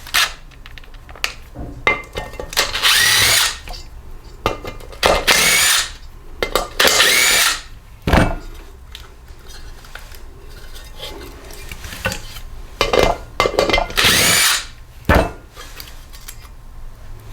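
Power driver running in short bursts, its motor pitch rising and falling, backing out the small 1/4-inch-head bolts of a cover on a small Briggs & Stratton engine. A couple of sharp metal clanks come in between.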